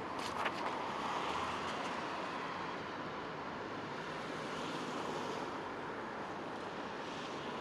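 Street traffic noise: a steady hiss of vehicles passing, swelling and fading slowly, with a few sharp clicks just after the start.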